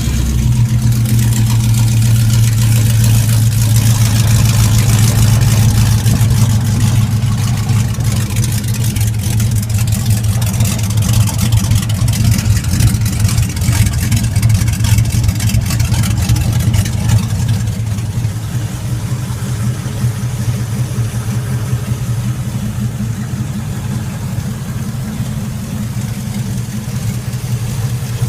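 Swapped-in 5.3 L Vortec V8 in a Jeep YJ idling loud and steady just after start-up, exhausting through shorty headers and straight pipes with no mufflers. It settles a little quieter about eighteen seconds in.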